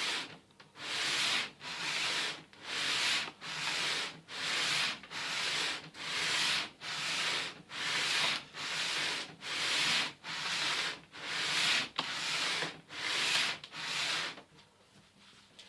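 Cast exhaust manifold flange being lapped flat on abrasive paper laid on glass: regular back-and-forth rasping strokes, a little over one a second, that stop about a second and a half before the end.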